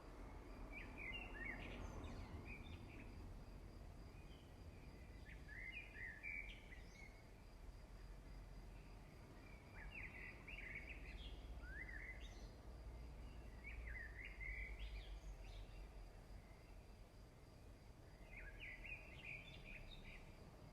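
Faint bird song: short chirping phrases every three or four seconds over a low steady hum.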